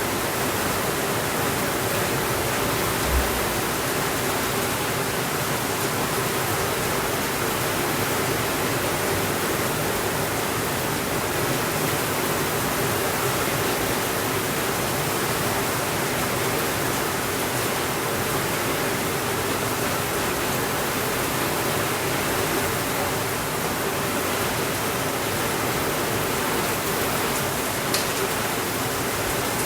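Steady rainfall, an even hiss with no thunder. A single low thud comes about three seconds in, and a short sharp click comes near the end.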